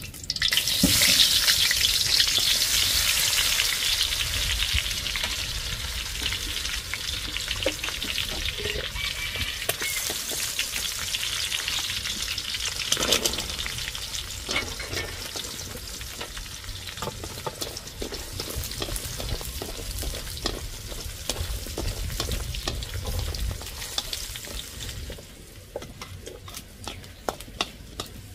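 Food sizzling and crackling in hot oil. The sizzle starts suddenly about a second in, is loudest for the first few seconds, then slowly dies down and drops away sharply near the end, with scattered clicks and knocks of stirring.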